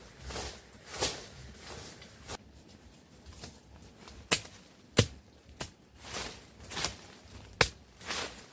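Irregular sharp knocks and swishing rustles in vegetation, several sharper cracks among them about four, five and seven and a half seconds in.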